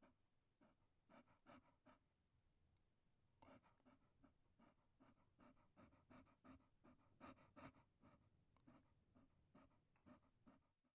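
Chihuahua panting: quick, soft, rhythmic breaths, about three or four a second, with a short pause about two seconds in.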